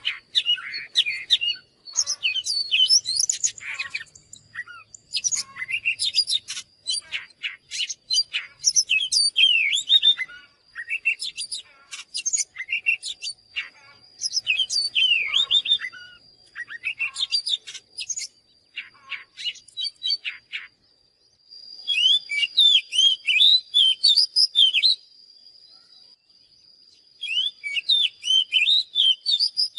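Oriental magpie-robin singing: phrases of rapid, varied whistles and chirps separated by short pauses, with a longer pause near the end before a last phrase. A thin steady high tone runs underneath.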